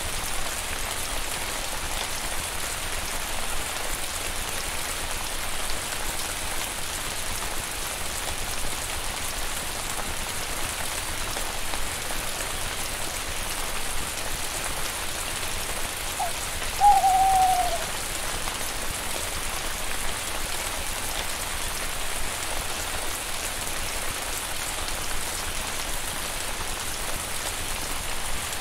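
Steady rain falling, an even hiss with no wind. About halfway through, a short animal call rings out once, a brief note followed by a longer one of about a second that falls slightly in pitch.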